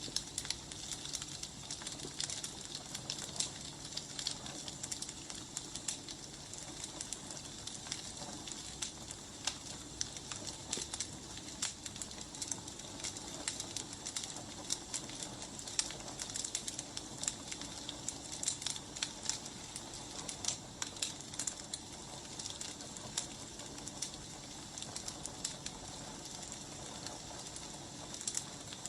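Wood fire crackling steadily, with frequent small sharp pops over a soft hiss.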